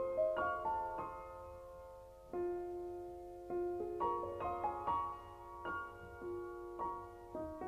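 Background piano music: slow, gentle phrases of struck notes and chords, each ringing on and fading.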